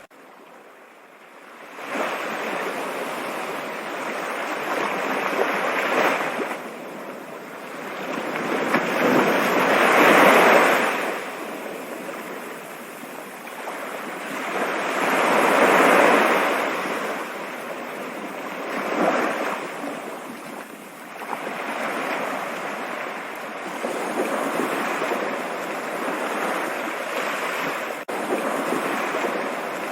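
Running water rushing steadily, swelling louder around ten and sixteen seconds in. It starts faint and comes up about two seconds in.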